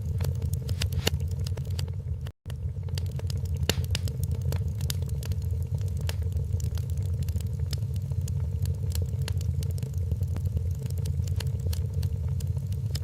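Wood fire crackling, with irregular sharp pops and snaps over a steady low rumble. The sound cuts out completely for a split second a little over two seconds in.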